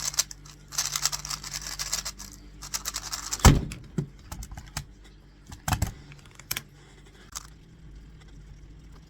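Tornado V3 Premium speed cube being turned at speed, a fast, dense clatter of plastic layers clicking, which ends in a loud thud about three and a half seconds in as the solve finishes. A few single knocks follow.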